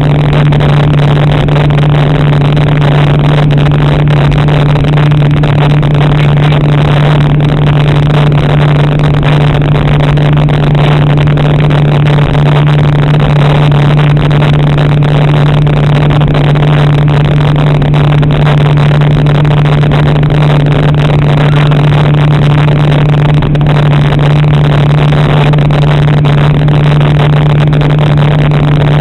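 Jet ski engine running at a steady speed, a constant loud drone with rushing noise over it.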